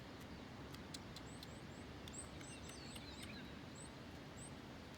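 A small bird giving short, high, rising chirps, several times, over a steady low rushing background.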